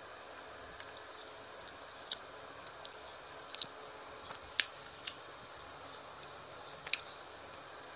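Close-miked eating by hand: chewing with a handful of sharp, wet mouth clicks and smacks a second or so apart, over a steady hiss.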